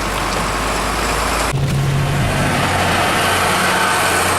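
Vehicle engine running steadily, with the engine sound changing abruptly about a second and a half in.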